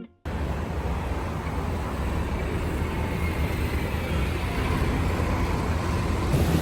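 Steady low rumble of a ferry under way, mixed with wind and water noise, starting abruptly just after the start.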